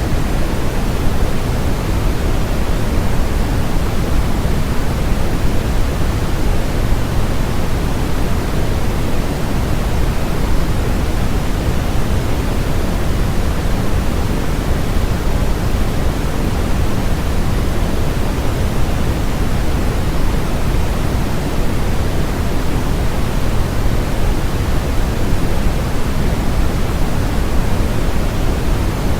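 Steady generated white-noise track: an even, unchanging hiss weighted toward the low end, like a soft rushing.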